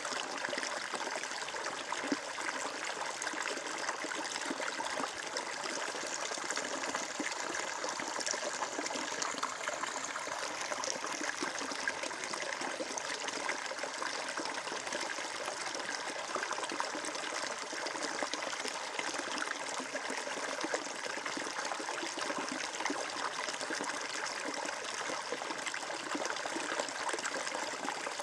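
Water flowing and trickling in a steady, even stream, with a constant babbling texture and no breaks.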